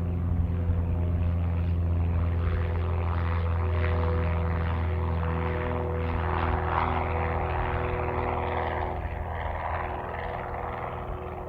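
Twin Pratt & Whitney R-2800 radial engines of a Howard 500 running steadily, with a deep propeller drone that eases slightly near the end.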